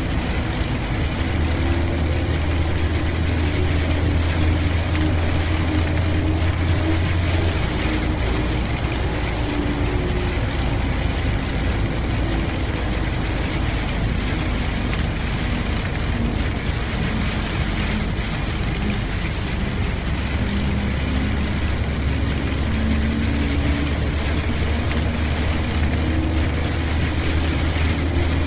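Car driving in the rain: a steady low engine and road drone under a constant hiss of rain and wet tyres.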